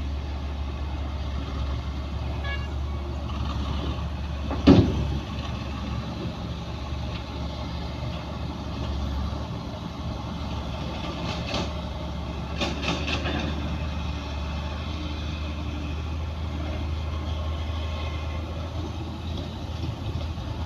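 Diesel engine of heavy earthmoving machinery running with a steady low drone. One loud bang comes about five seconds in, and a few sharper clanks around twelve to thirteen seconds.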